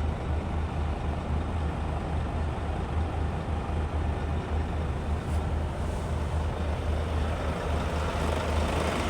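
Scania P280 truck's five-cylinder diesel engine running steadily, a constant low hum.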